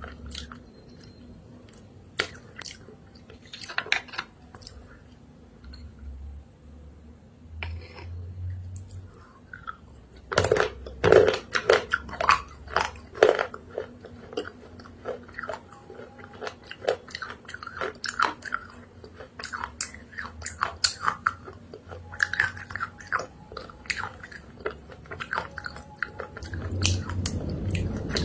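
A person biting and chewing crunchy chalk-clay paste, close to the microphone: many short crisp crunches, sparse at first, then coming thick and louder from about a third of the way in.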